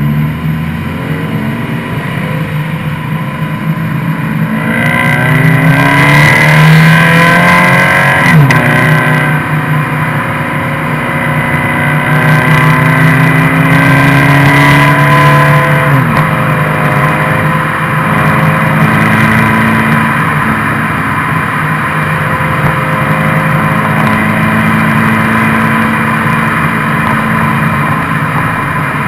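Subaru BRZ / Scion FR-S flat-four engine heard through its exhaust muffler, idling and then revved twice: the pitch climbs quickly and drops off sharply about eight seconds in, then climbs more slowly and falls back about sixteen seconds in. It then runs steadily.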